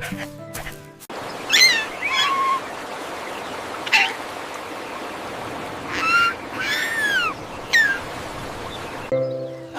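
Bird calls over a steady hiss: about seven short, high calls that sweep down or arch up and down in pitch. A short bit of music ends about a second in.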